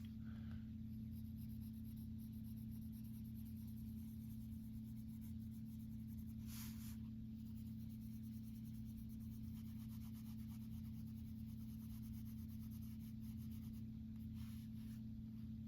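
Coloured pencil shading on paper, faint and scratchy, with one slightly louder stroke about halfway through, over a steady low hum.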